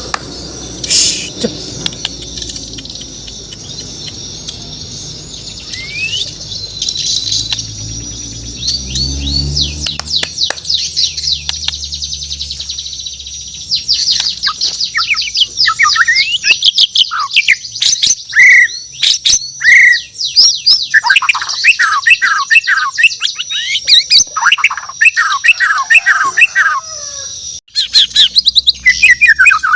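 Bornean murai batu (white-rumped shama) singing: a few scattered chirps at first over a low passing rumble, then from about a third of the way in a loud, rapid run of varied chirps, trills and short whistles.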